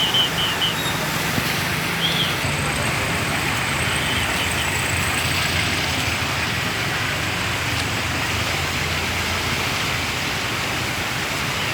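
Steady rushing of the flooded Nakhu Khola, a small river swollen into a fast, high flood.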